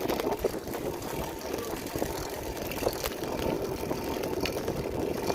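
Steady rumbling noise of riding a bicycle at speed: wind buffeting the microphone over the tyres rolling on pavement.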